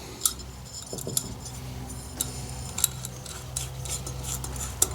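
Irregular light metallic clicks and clinks of small hand tools and nuts being handled while the cylinder nuts of a Stihl 041 AV chainsaw are fitted, over a faint steady hum.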